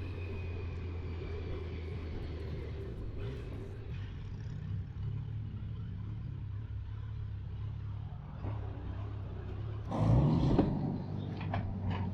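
Kawasaki motorcycle engine running steadily on the road, with a brief louder rush of noise about ten seconds in.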